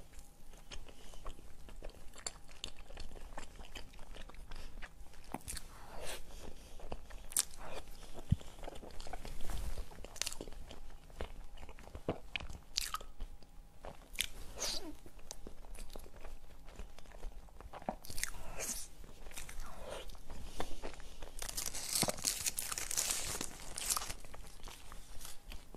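Close-miked chewing, biting and mouth smacking on soft taro-paste mochi (taro daifuku), in irregular short clicks. About 22 seconds in, a plastic wrapper crinkles as another mochi is unwrapped.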